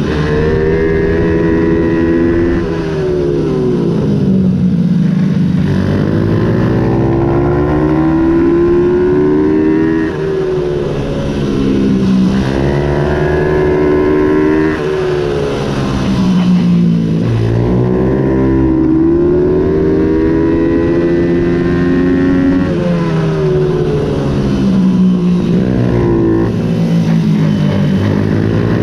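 Ohvale 110 minibike's small four-stroke single-cylinder engine racing: it revs up hard, the pitch steps back as it shifts or the throttle closes, then winds down into a corner before accelerating again. This cycle repeats several times.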